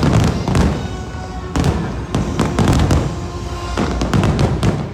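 Aerial fireworks bursting in rapid succession: many sharp bangs and crackles over music playing underneath.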